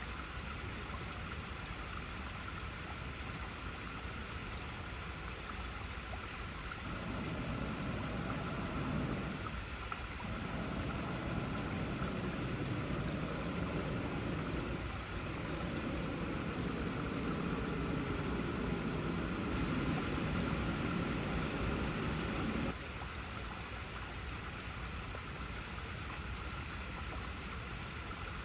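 Water flowing and rushing over icy rocks in a steady hiss. About seven seconds in, a deeper, louder rush joins for around fifteen seconds, with two brief dips, then cuts off suddenly.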